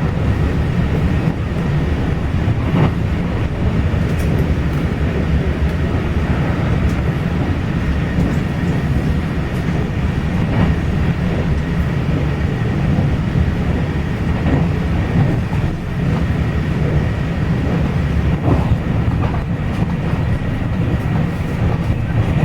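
Taiwan Railways regional express train running on the rails: a steady low rumble with faint scattered clicks and a thin steady whine above it.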